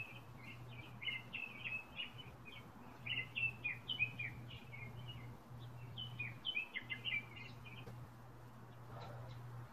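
Songbirds chirping in quick runs of short high notes, which stop about seven seconds in, over a steady low hum.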